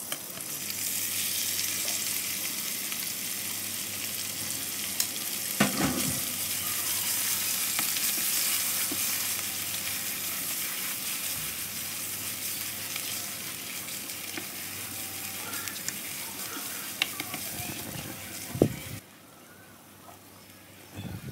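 Ground spice paste sizzling as it hits hot oil and margarine in a nonstick wok and is stir-fried, with a spatula knocking against the pan a few times. The sizzle falls away suddenly near the end to a faint hiss.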